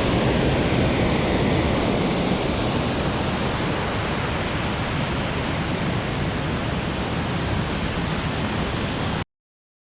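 Waterfall rushing: a loud, steady roar of falling water with no breaks, which cuts off abruptly near the end.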